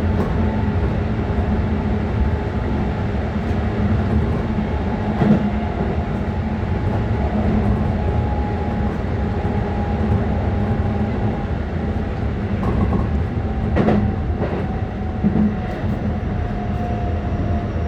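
Keikyu 600 series electric train running, heard from inside the train: steady rumble of wheels and motors, with a few sharp knocks from the wheels over rail joints. A motor whine falls slowly in pitch through the second half as the train slows for the next station.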